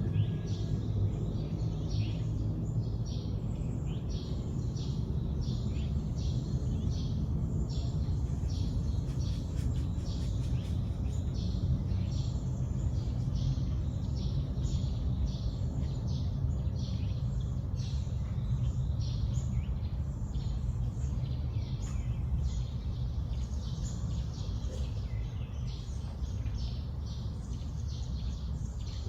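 Songbirds chirping, many short repeated high calls overlapping, over a steady low rumble of background noise.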